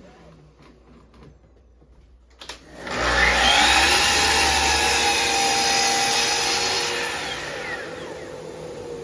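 Chop saw started up and run through a cut in a wooden board, a loud steady motor whine that starts suddenly about three seconds in and fades away with a falling pitch near the end as the blade spins down.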